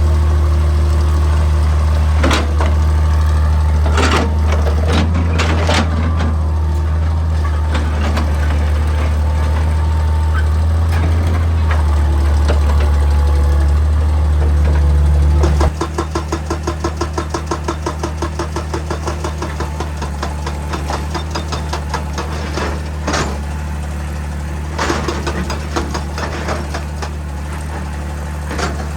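Excavator engine running with a loud steady hum and a few sharp clanks. About 16 seconds in the hum drops and a rapid, evenly spaced knocking starts: the hydraulic breaker hammering rock.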